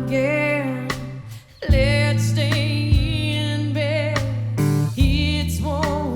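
Live song with a singer holding long wavering notes over guitar and steady low accompaniment, with a brief drop in the music about a second and a half in.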